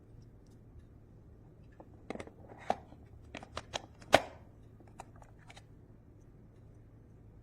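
A run of sharp clicks and taps, about a dozen, with the loudest a little past four seconds in, over a faint steady low hum.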